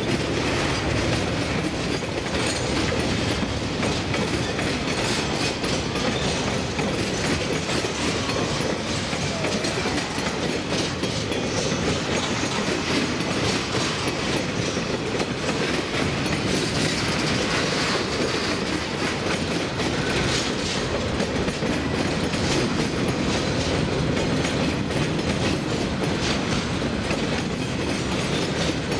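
Freight train wagons, covered hoppers and then container flats, rolling steadily past. Their wheels rumble and clatter on the rails without a break.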